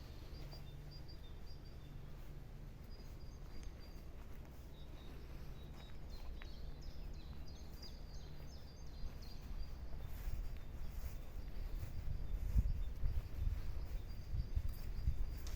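Faint bird chirps over a low rumble that grows louder and more uneven in the second half.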